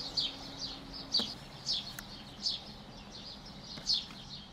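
Small birds chirping continuously: a quick run of short, high, falling chirps, several a second, with a few louder chirps standing out.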